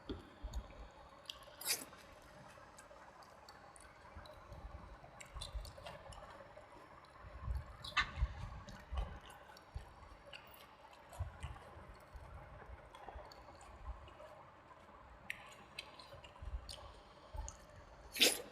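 Close-miked wet chewing and mouth smacking while eating rice with dal and vegetable curry, with scattered soft clicks and a few sharper clicks.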